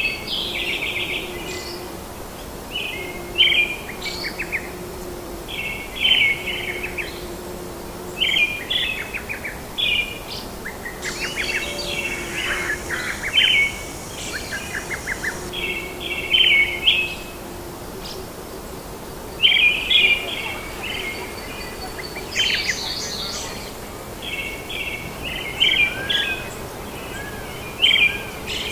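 Birds singing: short chirping phrases repeated about every two seconds over a steady background hiss, with a faint low tone coming and going underneath.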